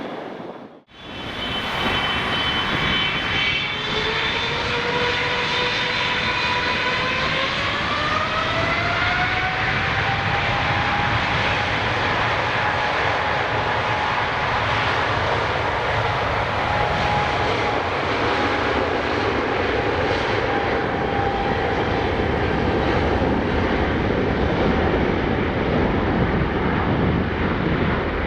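Boeing 777-300ER's GE90 jet engines spooling up for takeoff. Whining fan tones rise in pitch over several seconds, then hold steady over a loud, constant roar at takeoff thrust.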